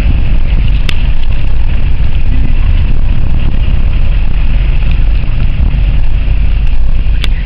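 Loud, steady rumble of a vehicle driving, with road and engine noise heard from inside. There is a sharp click about a second in and another near the end.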